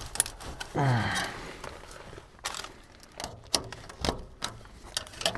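Scattered knocks and clicks of furnace vent pipe being worked loose by hand, with a short strained grunt with falling pitch about a second in.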